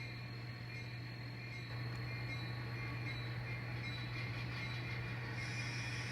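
N scale model locomotive running on the layout during yard switching: a steady low hum that gets a little louder about two seconds in.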